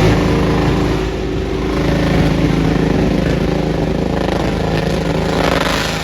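Truck engine running loud at a steady pitch just after being revved up, with a rougher, noisier swell near the end.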